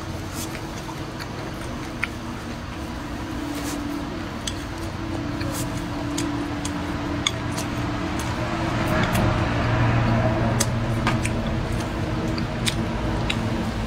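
Close-miked chewing of food, with scattered sharp clicks of wooden chopsticks against the plate, over a low steady hum.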